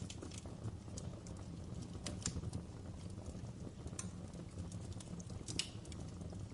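Fireplace fire crackling: irregular sharp pops and snaps over a steady low rumble, with a few louder pops about two, four and five and a half seconds in.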